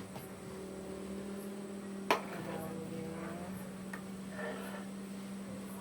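A steady low hum, with one sharp knock about two seconds in.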